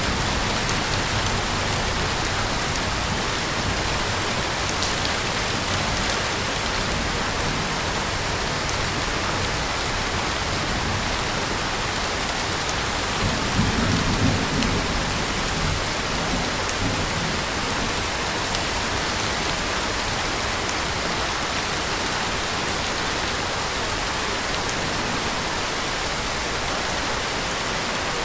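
Heavy rain falling outdoors, a steady, dense hiss. About halfway through a brief low rumble swells up and fades under it.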